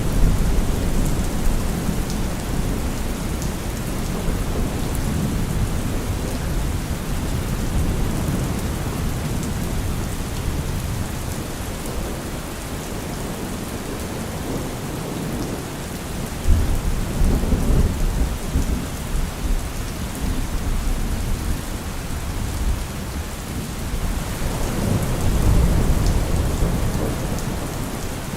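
Steady heavy rain falling, with low rolling thunder swelling up three times: just at the start, about two-thirds of the way in, and again near the end.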